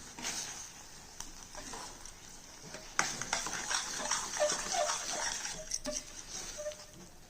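Thick banana-and-jaggery barfi mixture being stirred and scraped with a spatula in a hot kadhai, sizzling, with scattered clicks of the spatula against the pan. It gets louder about three seconds in.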